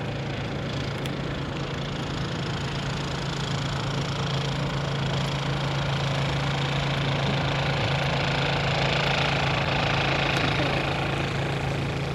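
A vehicle engine idling with a steady low hum, under a hiss that swells about two-thirds of the way through and eases near the end.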